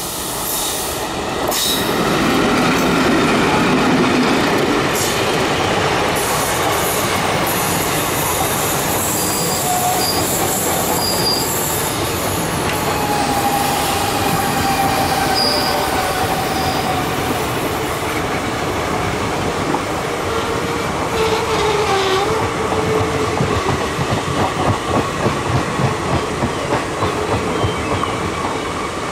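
Deccan Queen Express passenger coaches rolling past close by, their wheels squealing on the rails in several short high squeals and longer lower ones. Near the end comes a rhythmic clickety-clack of wheels over rail joints.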